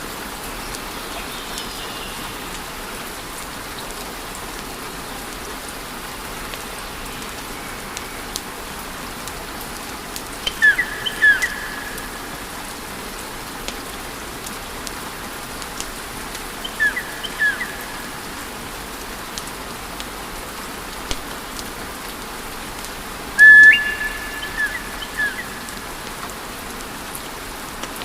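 Wood fire crackling with a steady hiss and small pops. A few short, high whistling chirps cut through it: a pair about ten seconds in, another pair near the middle, and a louder, longer whistle with several chirps after it near the end.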